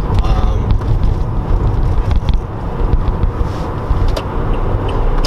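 Steady road and engine rumble inside the cabin of a moving 2014 Toyota Corolla S Plus.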